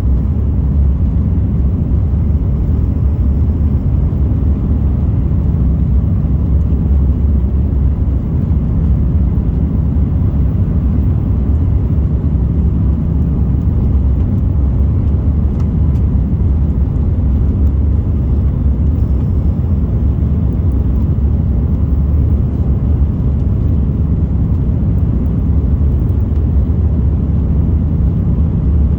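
Airbus A330-200 jet engines and airflow heard inside the economy cabin from a window seat, a steady loud low rumble that holds level without rising or falling.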